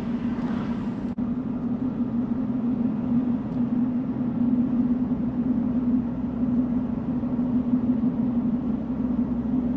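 Car engine and tyre noise heard from inside the cabin while driving: a steady drone with a constant low hum.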